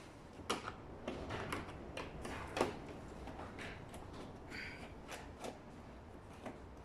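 Scattered light clicks and taps of hand work on a scooter's plastic battery cover as its screws are undone.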